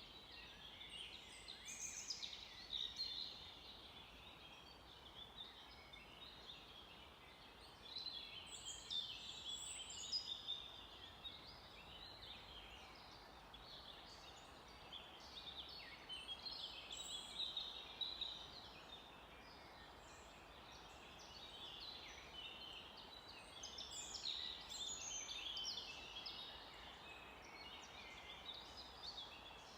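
Several small birds singing and chirping in overlapping bouts of quick, high trills and calls that come and go, over a faint steady background hiss.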